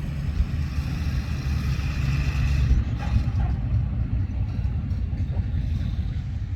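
Tractor engine running close by, a steady low rumble.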